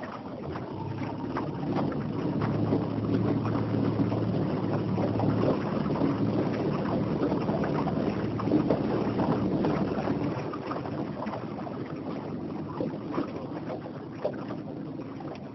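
Boat moving on open water: a steady wash of water and wind on the microphone, with a faint low hum that is stronger through the middle and fades somewhat near the end.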